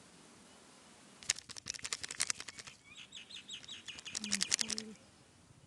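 Small birds chirping in quick runs of short notes, between two bursts of rapid crackling clicks.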